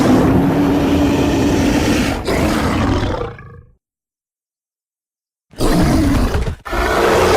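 Designed giant-jaguar creature roar, built from big-cat roars such as leopard, lion, tiger and sabre-toothed cat: one long roar that fades out a little over halfway through, then after about two seconds of silence a second roar starts, with a brief break in it.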